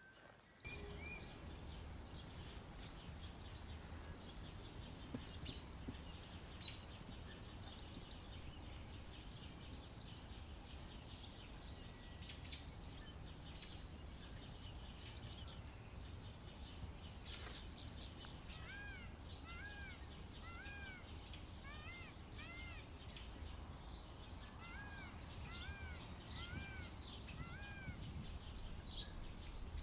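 Outdoor ambience: a low steady rumble with scattered faint chirps. In the second half a bird calls in two runs of repeated, arched whistled notes, a little under a second apart.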